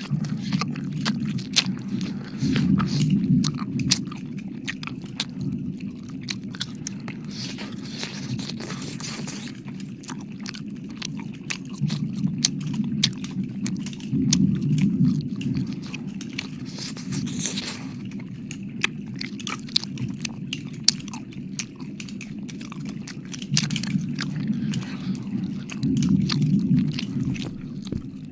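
Close-miked wet mouth sounds, licking and smacking, with dense sharp clicks and a low swell that comes and goes every several seconds.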